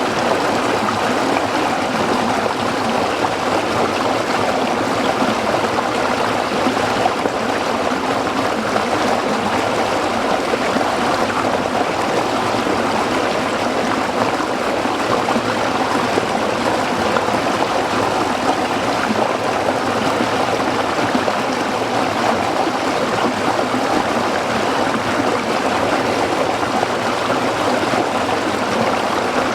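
A small stream flowing and splashing over rocks: a steady rushing and babbling of water.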